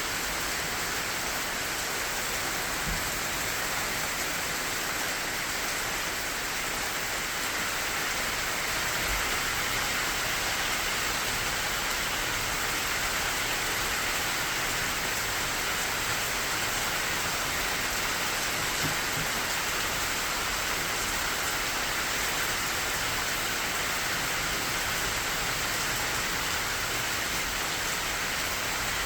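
Rain falling steadily on the leaves of a persimmon tree, an even hiss of drops with no breaks.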